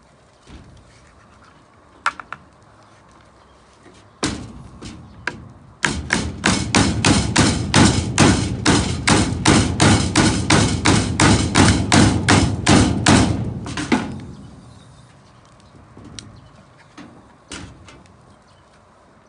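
Knife chopping steadily on a cutting board, about twenty strokes at two to three a second over some eight seconds, each with a solid thud; a single knock comes just before it, and light taps follow.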